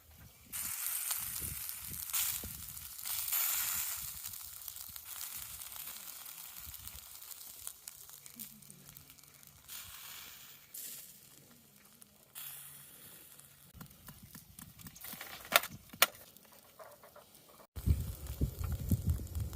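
Chicken sizzling as it cooks, loudest in the first few seconds and then dying down. Two sharp clicks come near the end, and then a louder, lower rumbling noise.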